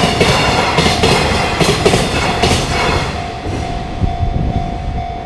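A freight train's wagons pass at speed, with wheels clacking regularly over rail joints. The rumble fades about three seconds in, leaving a level-crossing warning bell ringing in an even, repeating tone.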